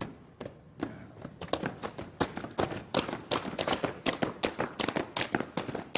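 A rapid, uneven run of sharp taps and clicks, several a second, getting busier about a second in.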